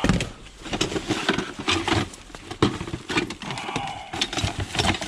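Objects being handled and rummaged through: irregular knocks, clatter and rustling.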